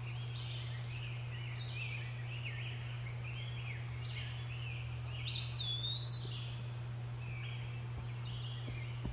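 Small birds chirping and calling repeatedly in short rising and falling notes, busiest in the first six seconds, over a steady low hum.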